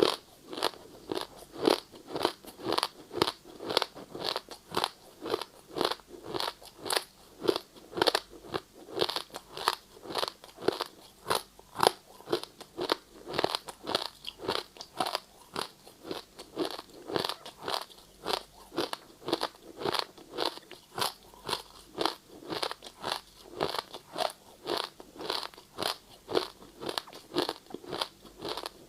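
A person chewing ice, with loud crisp crunches at a steady pace of about two a second.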